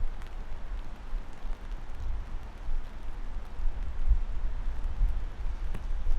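Steady rain hiss with a few faint drop ticks, over a louder low, uneven rumble that swells and fades every second or so.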